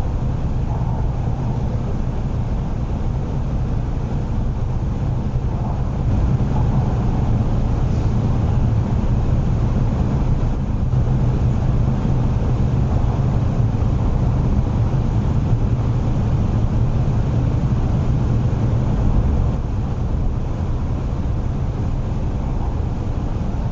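Steady low rumble of an MTR East Rail Line R-train electric multiple unit running on the line, heard from inside the passenger car, easing slightly a few seconds before the end.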